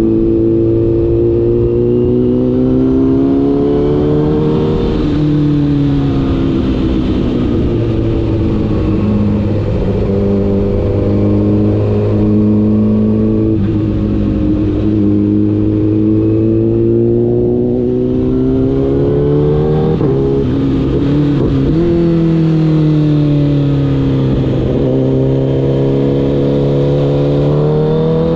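Honda CBR1000RR's inline-four engine under way. Its pitch climbs steadily as it pulls, with a sudden drop about five seconds in and another around twenty seconds, after which it rises again.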